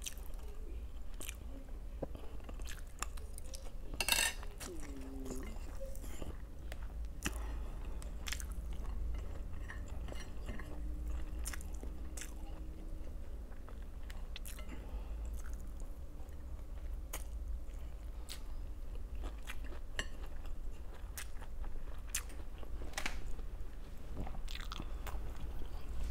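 Close-miked chewing and biting of food, with irregular crunchy clicks and smacks of the mouth, over a steady low hum.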